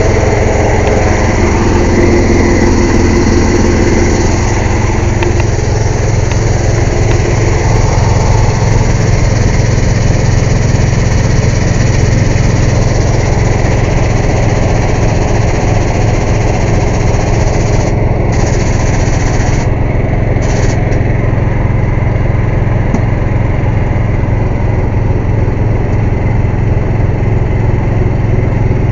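Air compressor running steadily and loudly, a constant engine-like drone with a strong low hum.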